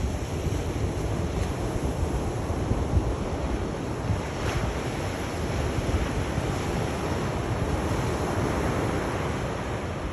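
Sea waves washing and breaking on a shore in a steady wash of surf, with wind rumbling on the microphone.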